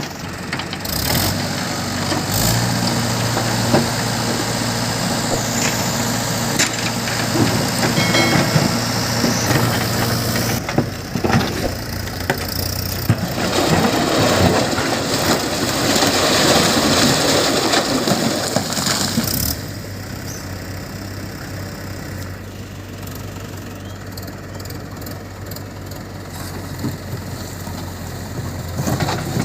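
Heavy diesel engine running steadily, with louder, noisier working sound through the middle that drops to a quieter, even running sound about two-thirds of the way in.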